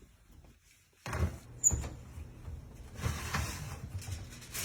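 Oven door being opened and closed as the dish goes in: a series of knocks and clunks with one sharp click, over a low steady hum.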